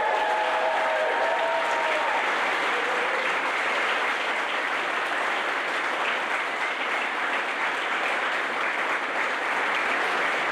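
Wedding guests applauding steadily after the kiss that completes the ceremony, with a few held cheering calls in the first two seconds.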